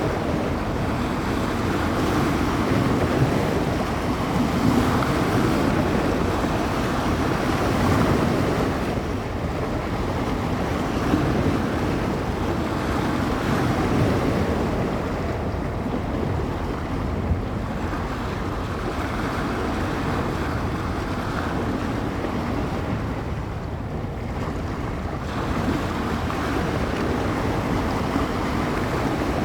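Bay waves washing and breaking on the shore in a steady wash that swells and eases every few seconds, with gusty wind buffeting the microphone.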